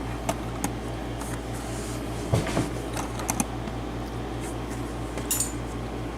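Light metallic clicks and taps as a picked-open Dorma pin-tumbler lock cylinder and picking tools are handled, with a small cluster about two and a half seconds in and another just past five seconds. A steady low electrical hum sits underneath.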